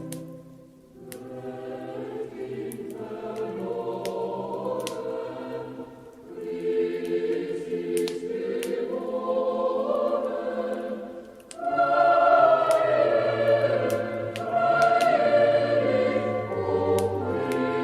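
Choir singing a slow Christmas song in long held phrases, with sharp crackles and pops from a wood fire in a fireplace scattered over it.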